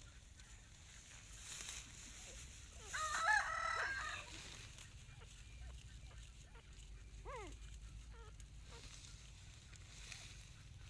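A rooster crows once, about three seconds in. A short, faint falling squeal comes a few seconds later.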